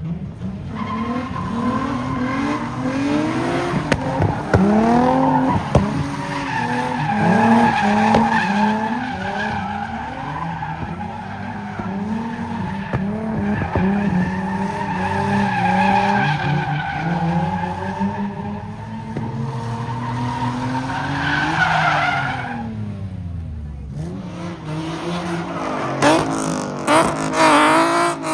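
Car engine revving hard up and down over and over while the tyres squeal and skid, as the car spins in a pit. The revving eases off briefly, then picks up again in quick sharp blips near the end.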